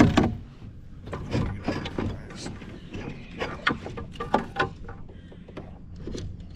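Irregular knocks, clicks and rattles against a kayak hull, a run of sharp strikes that thins out after about five seconds.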